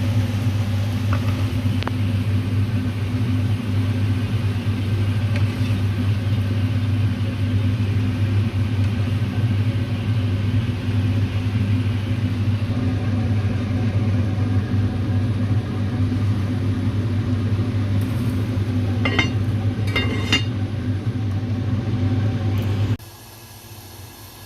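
A steady low mechanical hum, like a running motor, with a faint hiss over it; it cuts off suddenly near the end. Two short high chirps come a few seconds before the cutoff.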